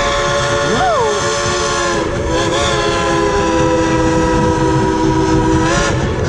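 1938 Baldwin steam locomotive's whistle blowing a long chord of several tones, dipping briefly about two seconds in, then holding again until it stops near the end, over the steady rumble of the moving train.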